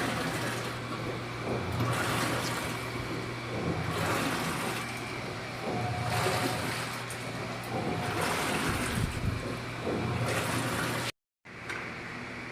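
Washing machine running, with water sloshing in the drum in surges about every two seconds over a steady motor hum. About eleven seconds in the sound drops out for a moment, and a steadier hiss follows.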